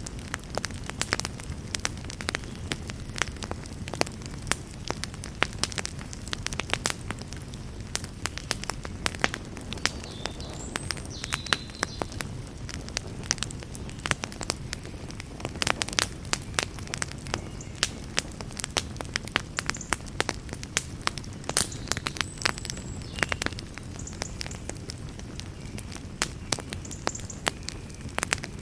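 Campfire burning: frequent sharp crackles and pops over a steady low sound of the flames.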